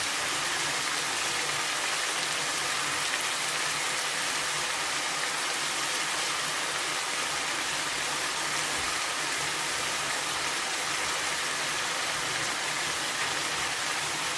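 Boneless chicken cubes sizzling steadily as they fry in a non-stick pan, cooking in their spiced marinade and their own juices.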